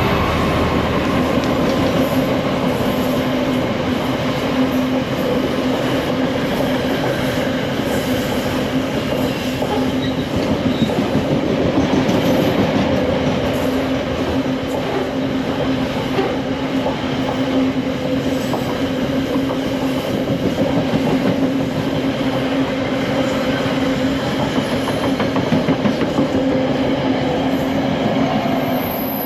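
A train running past at close range: a steady loud rumble with a constant hum, and rapid clicking from the wheels on the track throughout.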